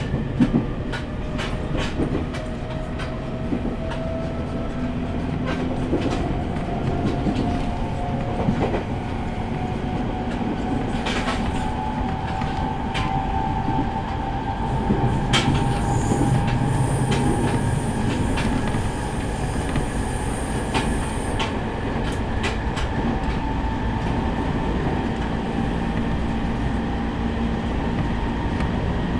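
E501 series electric train running, with a traction motor whine that rises in pitch through the first half and then holds steady, over rolling noise. Scattered clicks from the rails, and a thin high wheel squeal for a few seconds past the middle.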